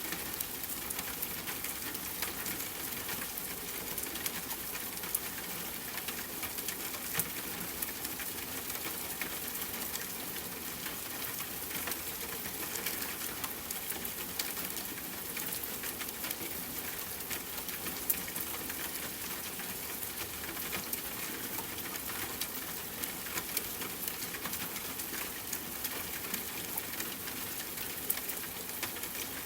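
Steady rainfall mixed with a crackling wood fire: an even hiss dotted throughout with many small pops and snaps, now and then a louder one.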